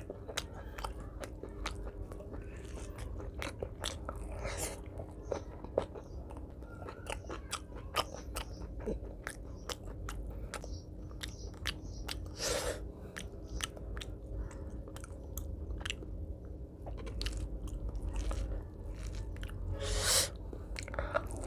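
Close-miked chewing of a mouthful of rice and mutton curry by hand, with many small wet mouth clicks and a few louder smacks.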